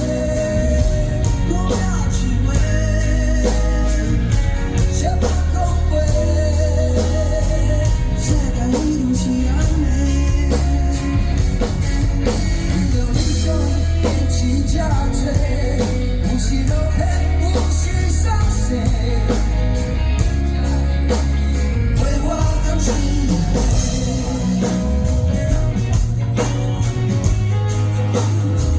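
Live rock band playing an instrumental stretch between sung lines, with a steady drum kit beat, bass and electric guitar lead.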